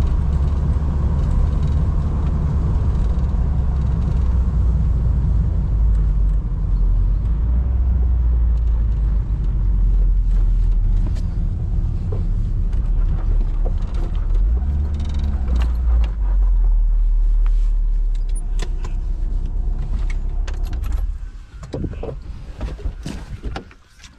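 A 1988 VW Golf Mk1 Cabriolet's 1.6-litre four-cylinder engine running steadily as the car drives with the top down, with wind and road noise. Near the end the engine rumble falls away and a few clicks and knocks follow as the car stops.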